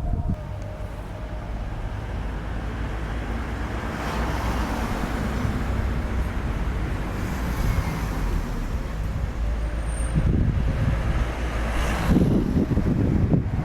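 Road traffic on a city street: a steady rumble of vehicles going by, swelling louder about four seconds in and again near the end.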